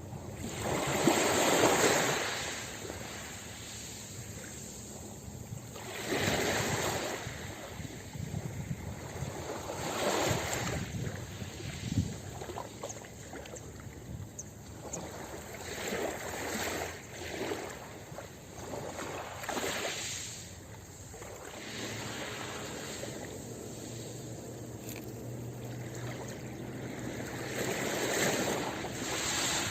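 Ocean waves breaking on a beach: a hiss of surf that swells and fades as each wave comes in, every few seconds. The biggest surges are about a second in and near the end.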